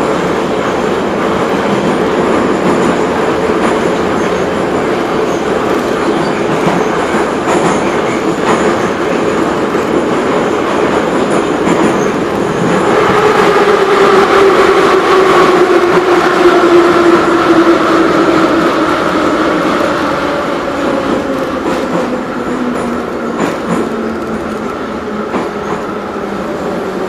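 Moscow Metro 81-717/714 "Nomernoy" train running through the tunnel with steady wheel and rail noise. About halfway through it gets louder and a whine from the traction motors falls steadily in pitch as the train slows for the next station.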